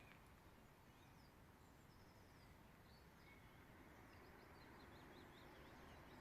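Faint birds chirping over a low steady outdoor hiss, with a quick run of repeated notes about four to five seconds in.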